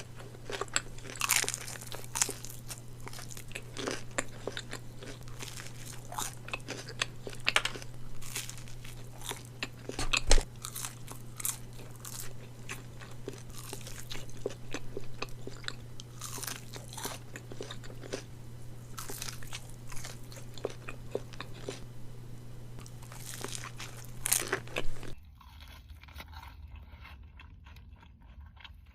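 Close-miked eating of Raising Cane's crispy fried chicken fingers: repeated crunching bites and chewing, with one especially loud bite about ten seconds in. A low steady hum runs underneath until the crunching stops abruptly near the end, leaving quieter chewing.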